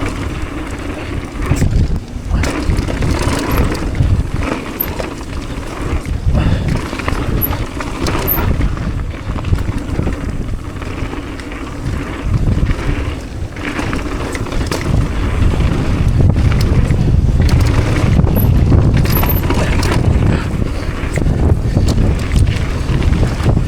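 Wind buffeting the microphone over the tyre noise of a mountain bike riding a dirt trail, with frequent knocks and rattles from the bike over bumps.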